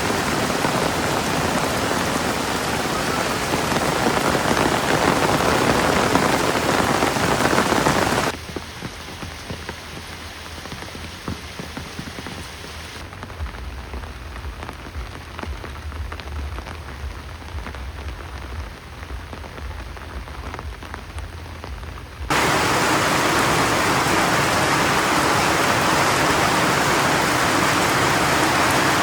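Heavy rain falling steadily. About eight seconds in it drops abruptly to a much softer rain, then returns just as loud about fourteen seconds later.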